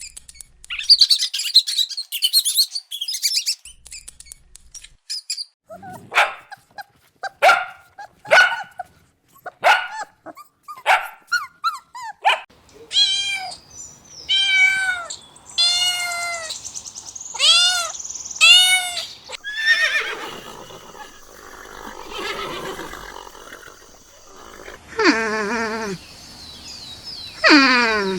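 A succession of domestic animal calls, most likely dogs: first a run of short calls, about one every second, then a string of high calls that rise and fall in pitch, and near the end two drawn-out calls sliding down in pitch.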